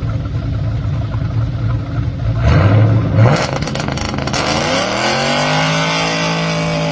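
Car engine running low at the start line, then a sudden loud launch about two and a half seconds in with a burst of noise, followed by the engine note rising as the car accelerates away on a short speed run, then holding steady.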